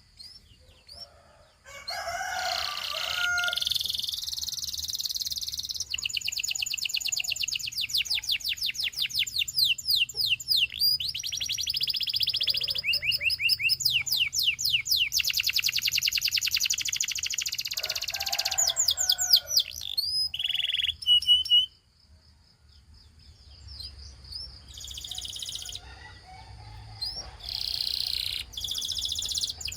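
Gloster canary singing: long phrases of fast trills and rolling runs of repeated high notes, with sweeping glides between them. The song breaks off for a moment a little past the middle, then starts again in shorter phrases.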